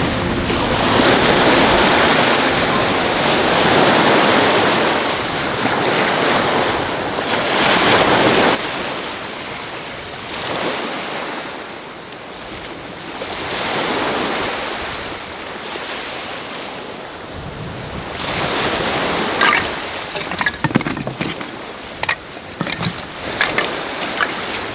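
Sea waves washing onto the shore, a loud rushing hiss that swells and ebbs with each surge. The sound drops sharply about a third of the way in and goes on as softer, slower wave surges. Near the end a scatter of sharp clicks and taps sits over the waves.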